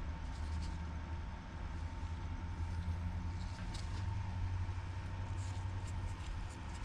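Steady low background hum with a thin steady tone above it, and a few faint light clicks of small parts being handled.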